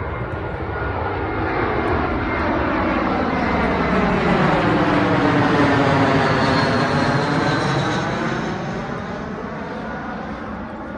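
Jet airliner passing low overhead: a broad engine rush that swells to its loudest about halfway through and then fades, with a faint high whine sliding slowly downward.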